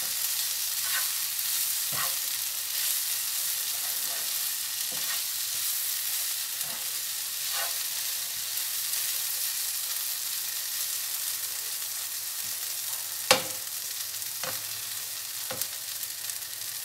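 Sliced okra and onions sizzling in oil in a non-stick pan on low heat, nearly cooked. A spatula stirs and scrapes through them, knocking against the pan now and then, with one sharper knock about three-quarters of the way through.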